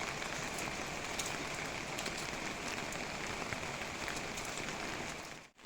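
Steady rain falling, with many separate drops ticking against a surface. The sound drops out abruptly just before the end.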